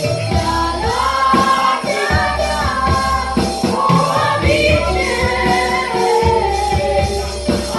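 A congregation singing a Hindi worship song together over a live band with a steady beat, a tambourine jingling along.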